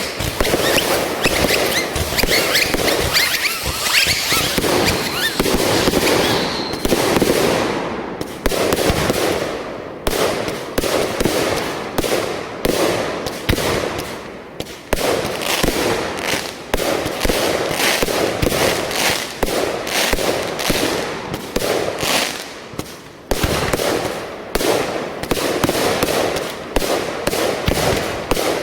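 Fireworks going off: a dense, continuous crackle for about the first eight seconds, then a long run of separate sharp bangs and pops, a couple a second.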